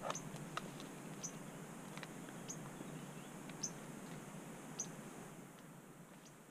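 A bird's short, high chirp, repeated at a steady pace about once a second. A few sharp twig snaps and rustles in the first half second come from moving through brush.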